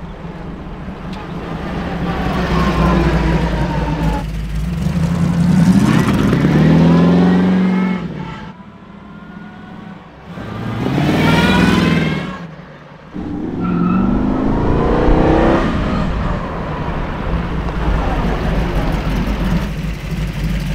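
Hot rod roadster's V8 running and pulling away down the street, its pitch rising in repeated surges as it accelerates. It sweeps past about halfway through, then settles into a steady low idle near the end.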